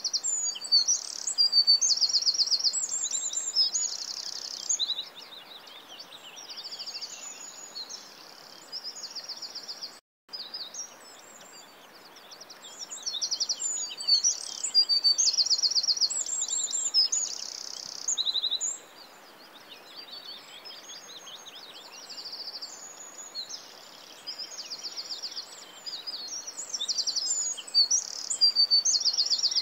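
Birdsong: songbirds singing in repeated high, fast trills and chirps over a steady background hiss, with a brief cut to silence about ten seconds in.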